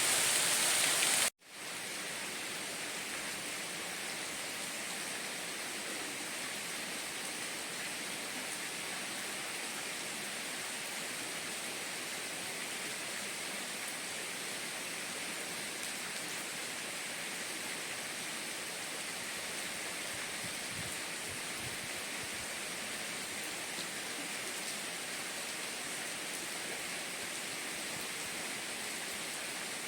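Steady hiss of falling water from a rain-sound recording. About a second in it cuts out abruptly for an instant, then resumes as an even, slightly quieter rush that holds steady.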